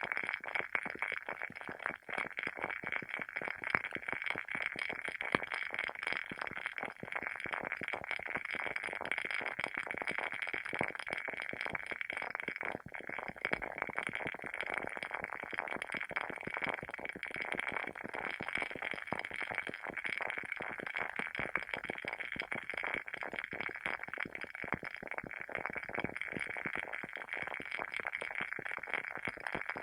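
WoodWick candle's wooden wick burning with a steady, dense crackle of small pops.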